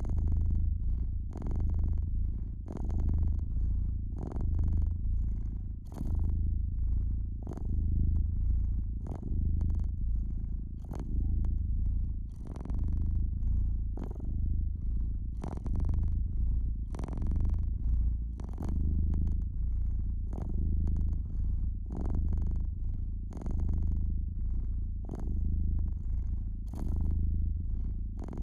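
Domestic cat purring steadily, a low rumble that swells and fades about once a second. Irregular crackles and pops of a wood fire sound over it.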